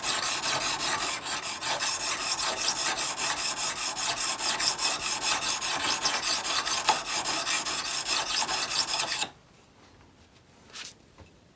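Steel chisel being rubbed back and forth on a whetstone in rapid strokes, a continuous scraping rasp as the flat back is ground down past rust pitting. It stops suddenly near the end, followed by one faint knock.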